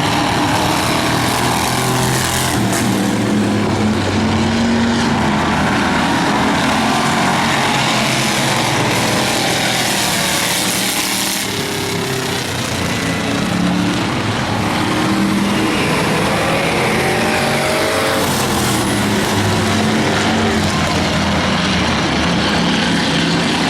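Several demolition race cars' engines running together around a short oval, their pitches rising and falling as they accelerate and lift.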